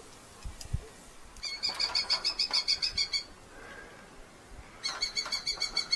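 Red-footed falcon calling: two runs of rapid, shrill repeated notes, about eight a second, the first lasting under two seconds and the second starting about five seconds in.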